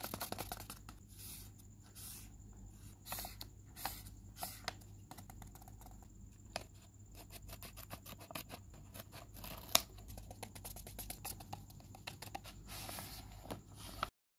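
A handmade paper blind bag and paper craft pieces handled close to the microphone: paper rustling and scraping with scattered taps and clicks, one sharp click about ten seconds in, over a faint steady hum. The sound cuts off shortly before the end.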